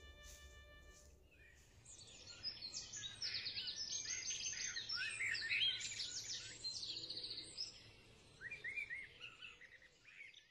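A songbird singing a fast, varied song of high trills and chirps, loudest in the middle and thinning out near the end.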